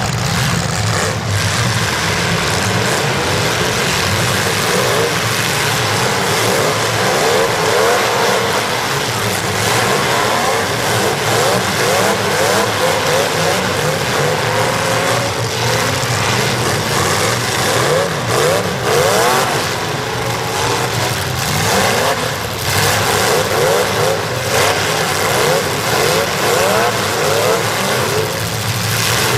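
Demolition derby cars' engines revving hard, several at once, their pitch repeatedly rising and dropping over a steady din.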